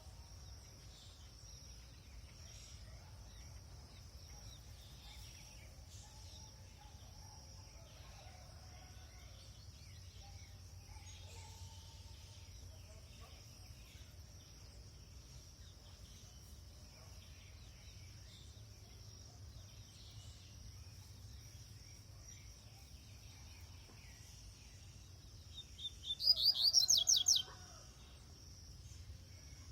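Double-collared seedeater (coleiro) singing one short, fast, loud phrase of high notes about 26 seconds in, over faint scattered chirps and a steady high hum.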